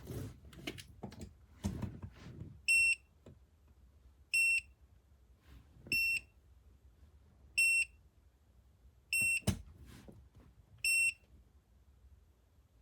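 The electronic beeper of a JIBUFI 1500W PTC space heater gives six short, high beeps about a second and a half apart. Handling knocks and rustling come before them, and there is a sharp click between the fifth and sixth beeps.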